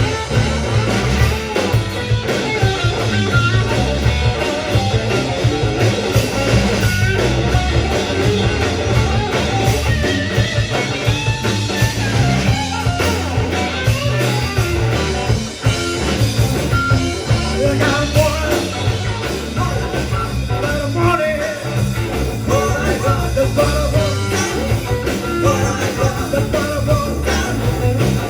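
A rock band playing live, with electric guitar, bass and drums and a singing voice.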